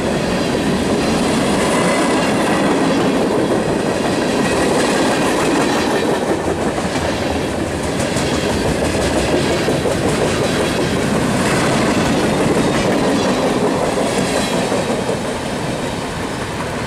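Freight train cars rolling past close by: a steady rumble and clatter of steel wheels over the rail joints, easing off a little near the end as the last cars go by.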